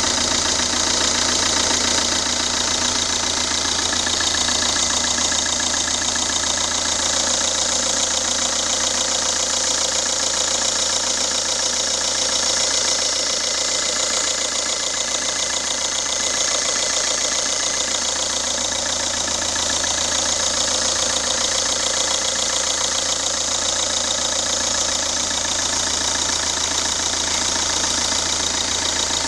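Ford TDCi common-rail diesel engine idling steadily from a cold start, carrying the abnormal noise that its owner is recording.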